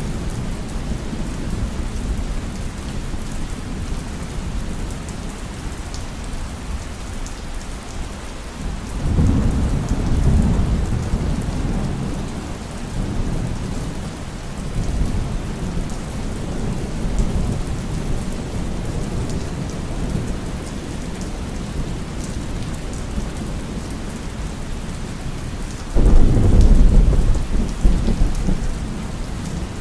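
Steady heavy rain with rolling thunder: a low rumble swells about nine seconds in, and a louder, sudden crack of thunder breaks about twenty-six seconds in.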